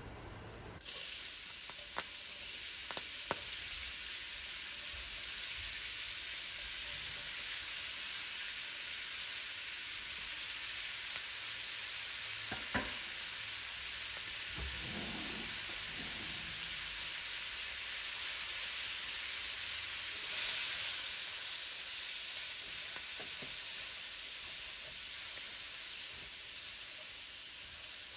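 Sliced sausage and chopped cabbage frying in oil in a wok, a steady sizzle, with a few light knocks and the stir-frying of the pieces.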